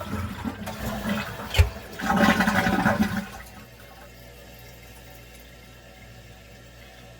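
A toilet flushing: a burst of rushing water with a sharp knock about one and a half seconds in, loudest from about two to three seconds in, then settling to a faint steady hiss.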